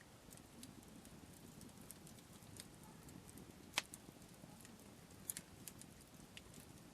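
Wood campfire crackling faintly: scattered small pops, with a sharper pop a little before four seconds in and a quick double pop just after five seconds.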